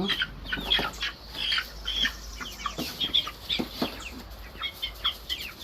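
A flock of chickens calling, with many short, high calls overlapping throughout.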